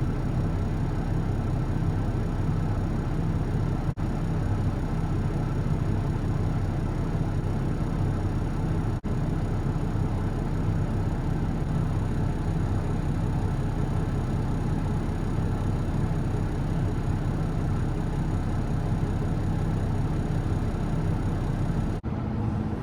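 Volvo L70C wheel loader's diesel engine idling steadily.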